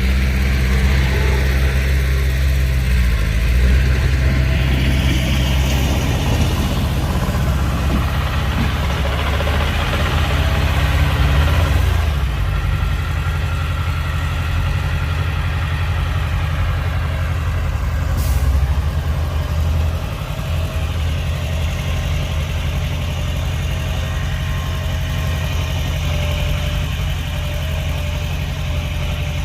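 Heavy diesel engines of a bulldozer and dump trucks running, mostly at a steady idle. The engine note shifts about three seconds in and again around twelve seconds. A short sharp click comes a little past the middle.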